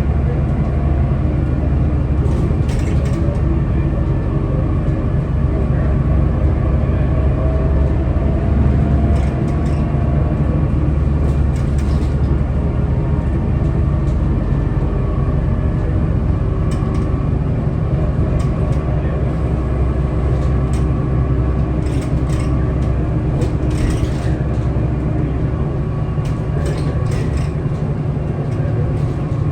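Scania L94UB city bus driving, its diesel engine running steadily with a low drone, the pitch shifting in the first few seconds. Scattered short rattles and clicks come through over the engine.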